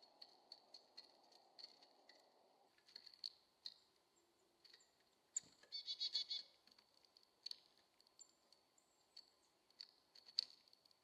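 Small birds calling at a backyard feeder: faint repeated high chips, then a quick burst of rapid notes about six seconds in and a few very high short notes later, among light tapping clicks.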